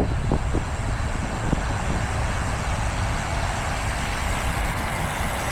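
Steady rumble of wind and road traffic heard from a moving bicycle on a busy road.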